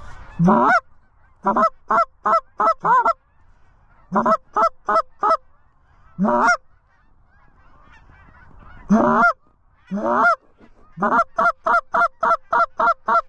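Canada goose calling: loud, short honks and clucks blown on a goose call, mostly in quick runs, with a fast string of about eight near the end.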